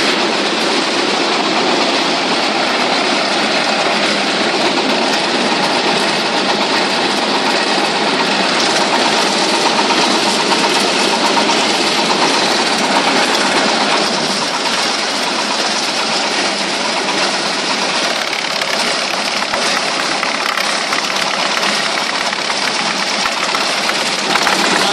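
Wood chipper running steadily, a loud, dense mechanical din.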